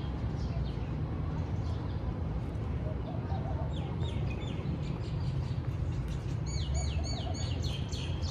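Small birds chirping in the trees: short runs of quick, high chirps, with a faster run near the end, over a steady low background rumble.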